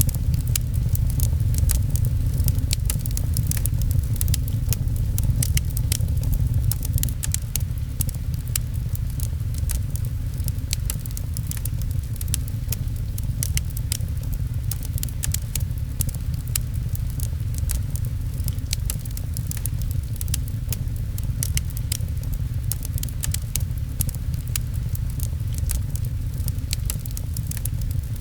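Fireplace crackling with many small, irregular snaps, over a steady low rumble and the patter of rain.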